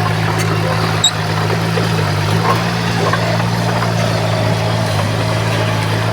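Heavy diesel engine of earthmoving machinery running steadily at an even, low pitch, with a brief click about a second in.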